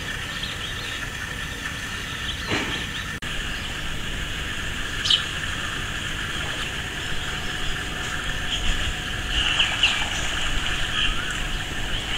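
Birds calling over a steady low rumble: a sharp chirp about five seconds in and a cluster of chirps around nine to ten seconds.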